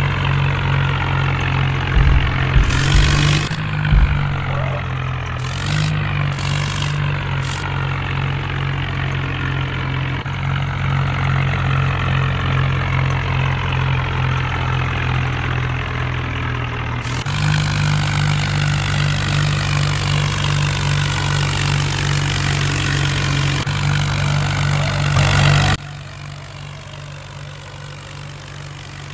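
Swaraj tractor's diesel engine running hard and steadily, with a few sharp knocks about two to four seconds in. The sound drops to a quieter level near the end.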